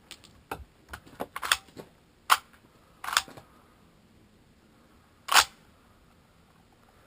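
A rifle's action being handled after a misfire: an irregular run of sharp metallic clicks and clacks, loudest about two seconds in and again about five seconds in.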